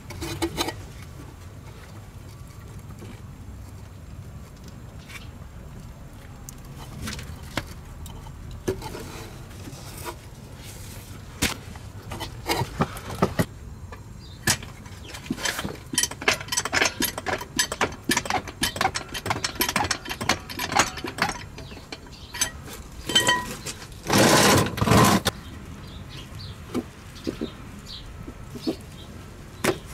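Metal clinks, knocks and rattles of hand work under a car on a replacement exhaust silencer, refitting its front rubber hangers. The clinks come in a dense run through the middle, with two loud scraping bursts near the end.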